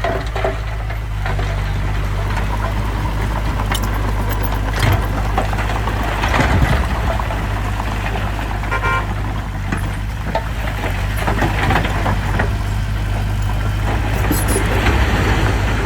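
Heavy diesel earthmoving machinery, a bulldozer or dump truck, running steadily, with occasional clanks and stretches of heavier working noise.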